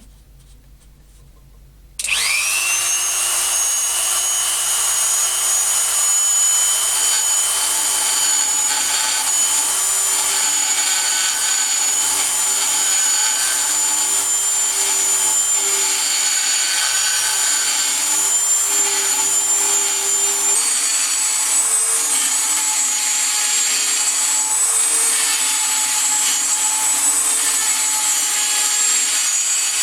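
A rotary tool fitted with a carbide burr spins up about two seconds in to a steady high whine and grinds into 3 mm brass plate, the whine shifting slightly in pitch as the load on the burr changes.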